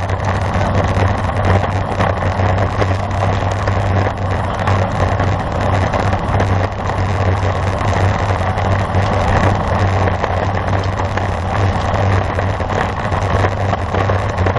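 Steady wind rush and road noise picked up by a camera riding along on a road bicycle at race speed, with a constant low hum underneath.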